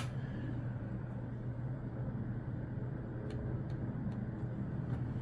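Steady low mechanical hum, like an engine running, with one sharp click right at the start and a few faint ticks about three to four seconds in.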